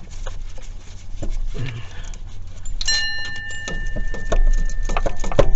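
Metal hand tools (sockets and wrenches) clinking and knocking as they are handled and set down. About three seconds in, one piece is struck and rings out with a clear metallic tone that fades over a couple of seconds.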